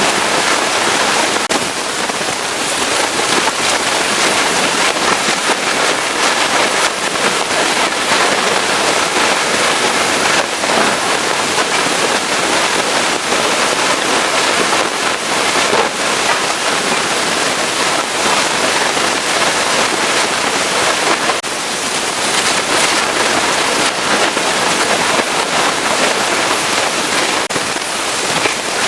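Pressure washer spraying a high-pressure jet of water onto a truck, a steady, continuous hiss of spray hitting the bodywork.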